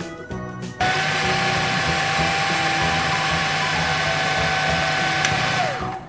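Small electric motor of a toy fruit juice maker whirring steadily with a high whine, then winding down with a falling pitch near the end. A short stretch of background music comes before it.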